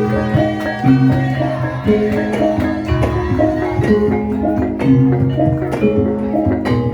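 Javanese gamelan ensemble playing a gendhing, mostly instrumental: held, ringing pitched notes changing in a steady pattern, with regular sharp strikes marking the beat.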